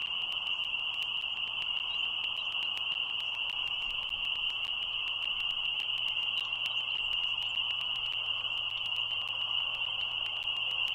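A dense chorus of frogs calling as one steady, unbroken high-pitched trill, with a faint low electrical hum and scattered clicks beneath it.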